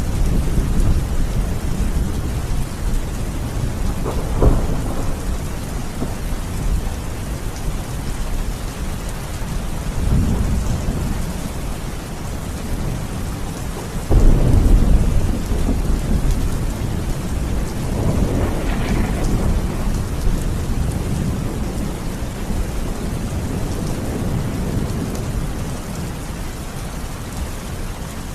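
Steady heavy rain in a thunderstorm, with rolling thunder rumbling several times. The loudest peal starts sharply about halfway through.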